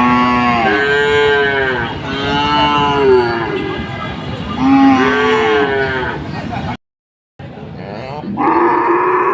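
Cows mooing: about five long calls one after another, each swelling and falling in pitch. The sound cuts out completely for a moment about seven seconds in, then another long moo starts near the end.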